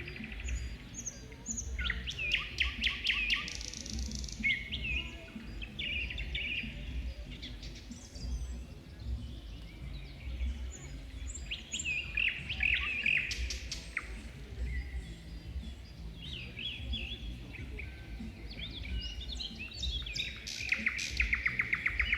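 Several small birds chirping and singing, with short rapid trills about two seconds in and again near the end, over a low steady rumble.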